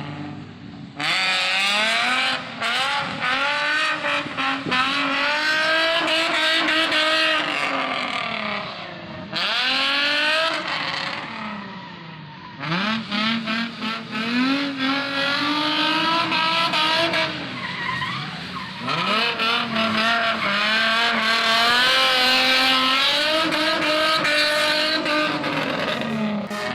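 Nissan 350Z's VQ35DE V6 with a Magnaflow exhaust revving hard while the car is drifted, its pitch climbing and falling again and again, with short lifts off the throttle.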